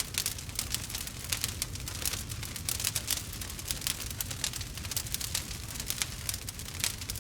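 Wood fire crackling: dense, irregular pops and snaps over a low steady rumble.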